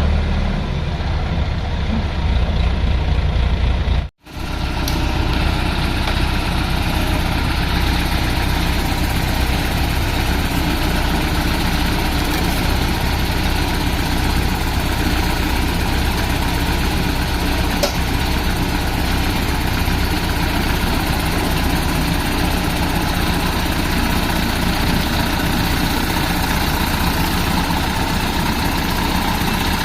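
A heavy machine's diesel engine running steadily. The sound cuts out for a split second about four seconds in, then resumes.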